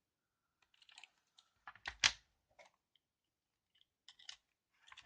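Scattered small plastic clicks and light knocks from handling a mechanical keyboard with its switches pulled out, the sharpest knock about two seconds in.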